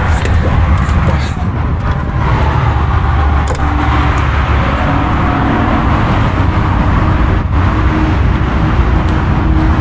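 Steady low rumble of vehicle engines and road traffic at a truck parking area, with a faint engine hum in the second half.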